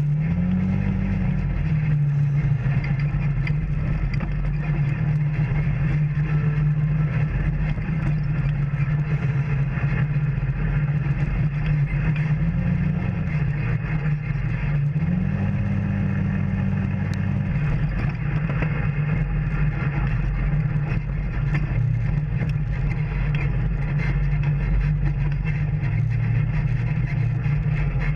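Off-road vehicle engine running steadily on the trail, its pitch rising briefly with throttle about a second in and twice more around the middle, over a constant low rumble.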